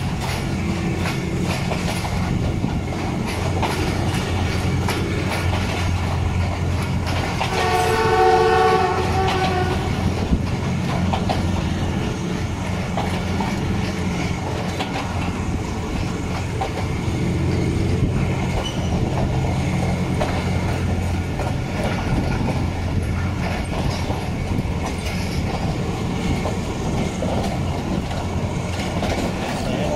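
Passenger train running along, wheels clacking over the rail joints, heard from a coach window. About eight seconds in, the leading ZCU-20 diesel locomotive's horn sounds once for about two seconds, the loudest moment.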